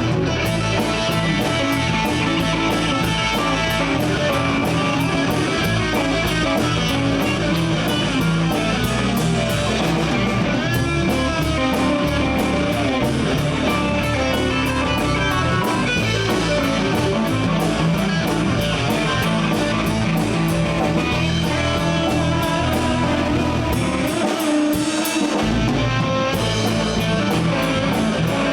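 Live blues band in an instrumental break: an electric guitar solo with bent notes over bass and a drum kit. The bass drops out for about a second near the end.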